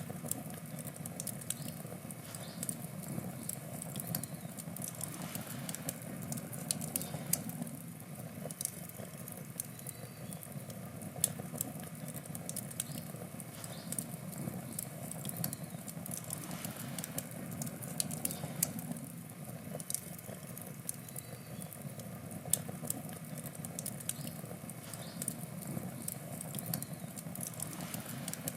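Wood campfire burning: a steady crackle with frequent sharp, irregular pops from the burning wood.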